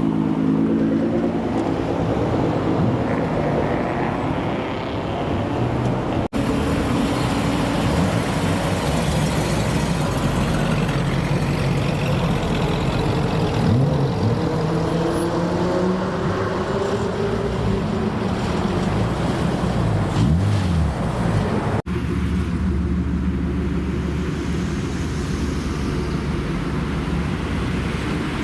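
Engines of large American cars running and revving, their pitch rising and falling as cars pull away or pass. The sound cuts abruptly twice, at about six seconds and near 22 seconds; after the second cut there is a steady deep engine rumble.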